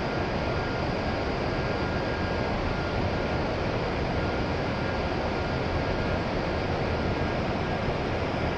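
Steady rumble of an approaching E7 series Shinkansen train still down the line, with a couple of faint steady tones above it.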